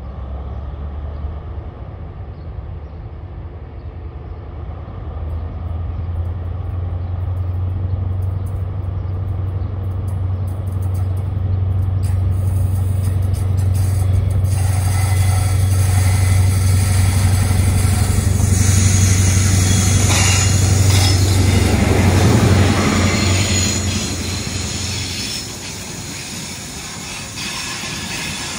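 Diesel train running close by: a low engine drone builds over several seconds, a rushing noise joins about halfway through, and the drone drops away about three quarters of the way in.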